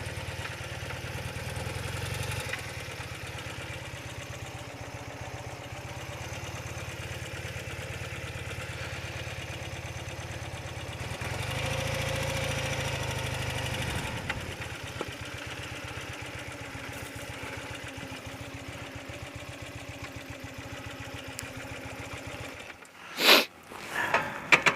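BMW motorcycle engine running at low speed, rising briefly in revs about halfway through and settling again. It stops near the end, followed by two sharp knocks.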